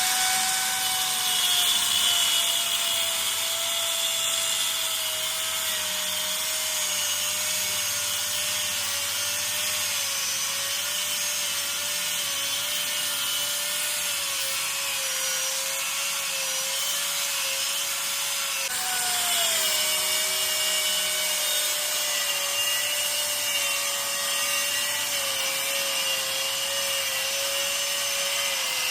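Power tool running under load on the steel of a truck axle flange: a steady whine over a gritty hiss, sagging slowly in pitch. About two-thirds of the way through the pitch jumps back up and sags again as the load returns.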